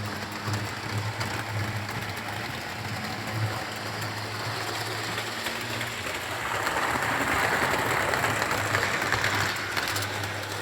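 Model railway train running along the track: a steady low motor hum with wheel and track rattle that grows louder for a few seconds past the middle, then falls away near the end.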